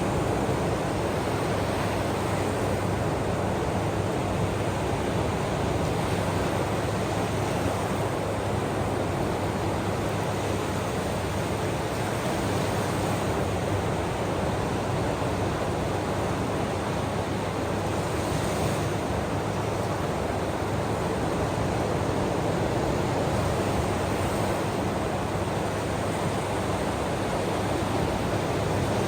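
Ocean surf: a steady, even rush of waves with no distinct breaking crashes standing out.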